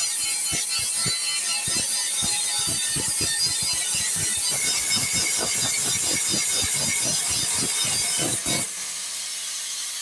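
Rapid, irregular mechanical clicking and knocking over a steady high hiss, stopping about eight and a half seconds in.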